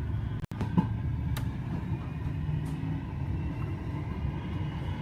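Tram running on its tracks, heard from inside: a steady low rumble with a faint whine over it.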